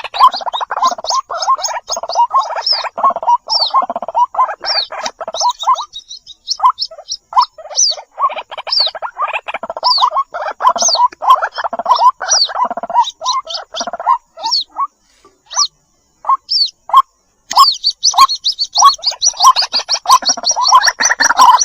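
White-breasted waterhen chicks calling, the begging call of chicks to their mother: fast strings of short, rapidly repeated notes with thin high cheeps above them, breaking off briefly about three quarters of the way through.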